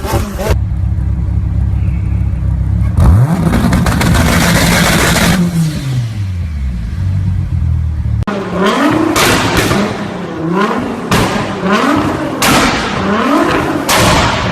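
High-performance car engines with loud exhausts. One idles low, then there is a sharp bang and a rev that rises and falls. Then another engine is blipped roughly once a second, each rev with sharp pops and bangs from the exhaust, typical of backfire or anti-lag.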